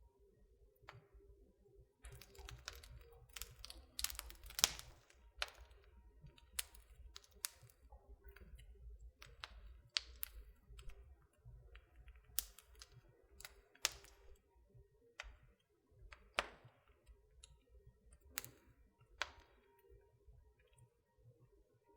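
Wood fire in a fireplace crackling: irregular sharp pops and snaps over a low rumble, the loudest pop about four and a half seconds in.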